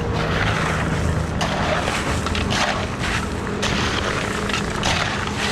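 An engine running steadily with a low, even hum under a wash of noise.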